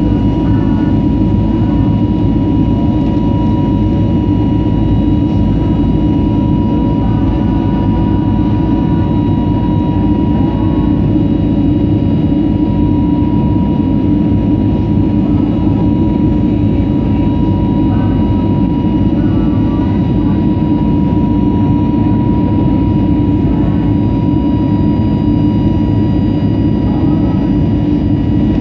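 Steady jet-engine and airflow noise inside an airliner cabin: a dense, even rumble with a constant whine on top.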